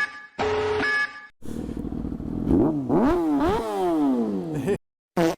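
An electronic alarm beeping, then a Yamaha R6 sport bike's inline-four engine revving hard through the gears, its pitch climbing and dropping back with each upshift, cut off abruptly near the end.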